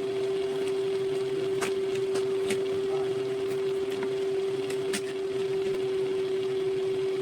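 A small electric motor running, with a steady high hum at a fixed pitch. A few light clicks sound over it.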